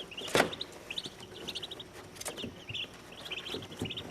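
Day-old Muscovy ducklings peeping, a steady stream of short high chirps in quick runs, with a few sharp knocks mixed in, the loudest about half a second in.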